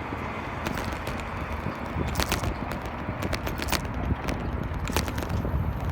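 Bicycle riding along a road: a steady low rumble of wind and tyres, with frequent sharp clicks and rattles from the bike.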